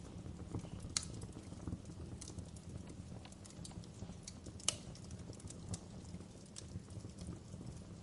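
Wood fire burning in a fireplace: a steady low rumble of flames under scattered crackles of firewood, with two sharper pops, one about a second in and one a little past halfway.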